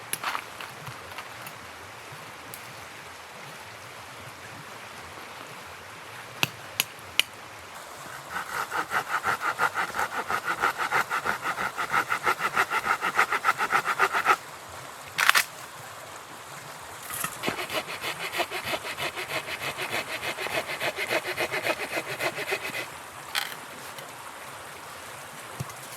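Hand saw cutting wood in two bouts of quick, even back-and-forth strokes, each lasting about six seconds with a short pause between. A few sharp knocks come before and between the bouts.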